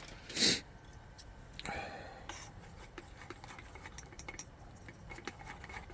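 Metal cookware and utensils being handled over the camp stove: a short, loud scrape about half a second in, a weaker one near two seconds, then light scattered ticks and clicks.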